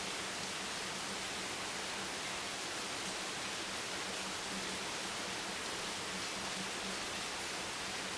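Steady rain, an even, unchanging hiss with no separate drops standing out, and a faint low hum coming and going beneath it.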